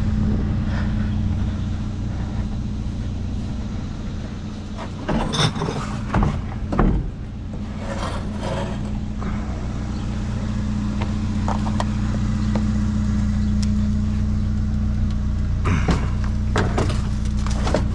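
Vehicle engine idling steadily, with a few sharp knocks and clatters about five to seven seconds in and again near the end.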